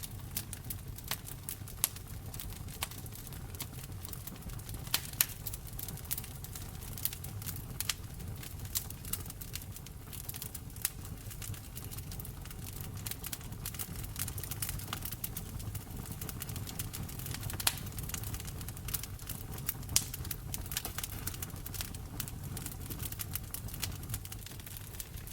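Wood fire crackling in a fireplace: irregular sharp pops and snaps, a few of them much louder, over a low steady rumble of the flames.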